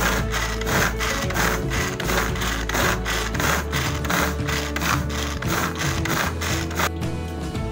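Hand-pull string food chopper being pulled over and over, its plastic housing and spinning blades giving a whirring rattle with each pull, about three pulls a second; it stops about seven seconds in.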